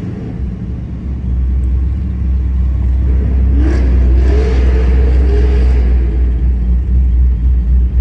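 A car running with a heavy low rumble that swells about a second in. Its engine note rises briefly around the middle, as on a throttle blip or acceleration.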